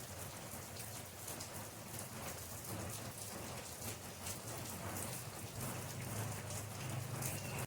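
Steady rain falling on a surface, many separate drop hits ticking over a continuous hiss, with a steady low rumble underneath.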